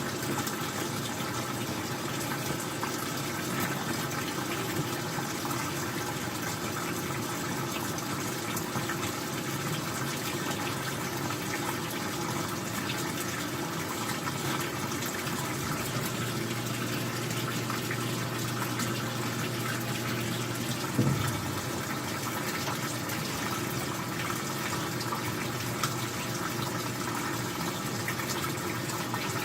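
Old-style front-loading washing machine with water rushing steadily through it. A low hum joins about halfway through and stops some five seconds later with a short knock.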